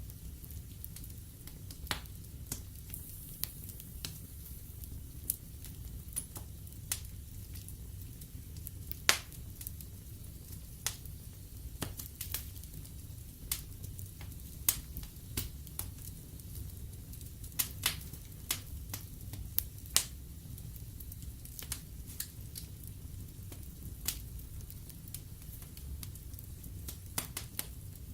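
Wood fire burning in a fireplace, logs crackling and popping in sharp, irregular snaps over a steady low rumble of flame. The loudest pops come about a third of the way in and again about two thirds of the way in.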